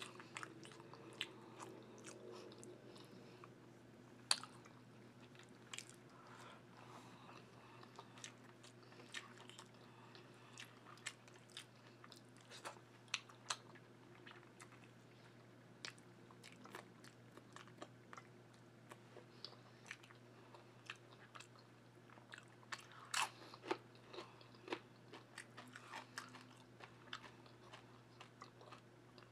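A person chewing food, with many scattered sharp mouth clicks and wet smacks and a denser, louder run of them about three-quarters of the way through.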